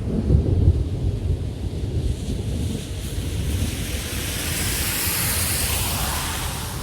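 Storm wind buffeting the microphone with a low rumble, then a rushing hiss that swells about halfway through and eases near the end.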